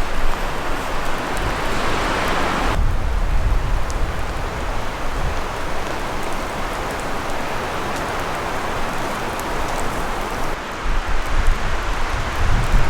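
Steady heavy rain falling, a dense even hiss, with low wind rumble near the start and again near the end. The rain sound changes abruptly about three seconds in.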